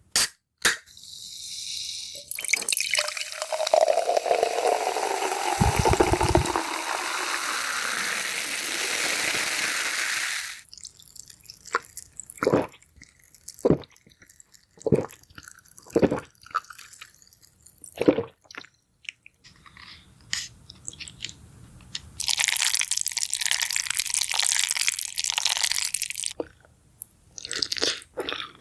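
Eating and drinking sounds: a long rush of liquid lasting about eight seconds, with a tone that slowly falls. Then come about ten separate crunches, a second or so apart, and another hissing rush near the end.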